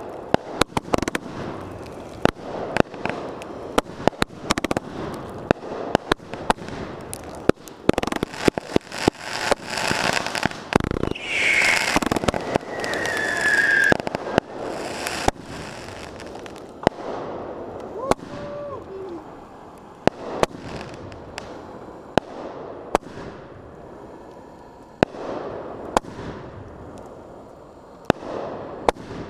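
Aerial fireworks going off in quick succession: sharp bangs of bursting shells with crackling between. The bangs come thick and fast in the first half and thin out to single reports later.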